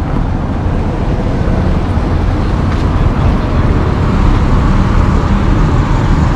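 Steady low rumble of road vehicle noise, loud and even.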